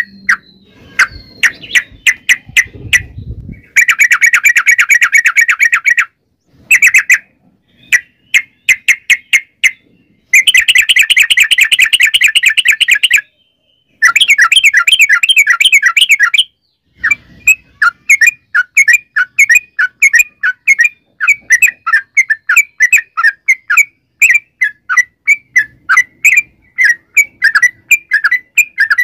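Yellow-vented bulbul (trucukan) singing: three long, very rapid rolling runs of chirps, each two to three seconds long, then a fast string of separate bubbly chirps.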